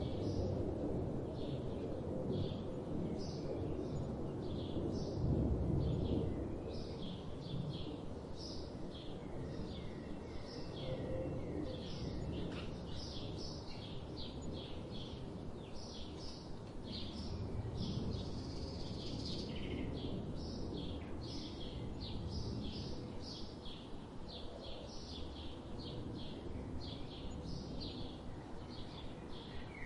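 Small birds chirping again and again in short, quick calls, over a low background rumble that swells a little now and then.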